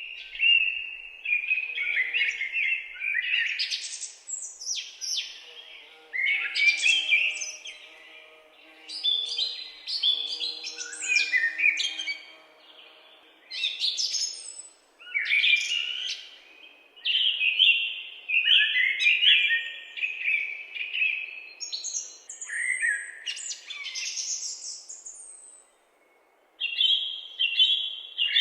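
Woodland songbirds singing and chirping in short, overlapping bursts of trills and calls, with brief pauses between phrases. The sound drops out briefly a couple of seconds before the end and then comes back.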